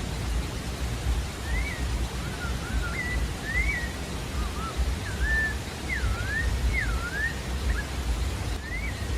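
Sabiá-da-várzea singing: a phrase of short, clear whistled notes, each a quick up-and-down slur, strung together over several seconds. A steady hiss and low rumble run beneath it.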